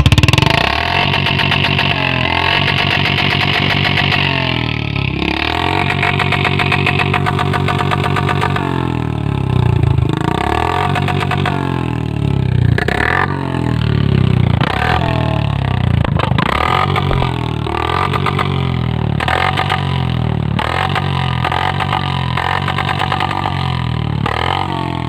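Royal Enfield Classic 350 single-cylinder motorcycle engine running through its exhaust, with the throttle blipped several times through the middle so the pitch rises and falls before settling back to a steady beat.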